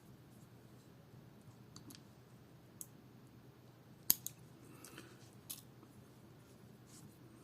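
Scattered faint clicks and taps of small hand tools against a smartwatch's small parts, with one sharper click about four seconds in.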